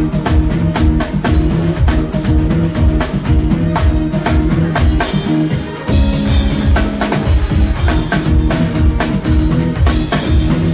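Live band playing a groove, with a drum kit beating out a steady rhythm over bass notes. The bass and kick briefly drop out a little past halfway, then come back in.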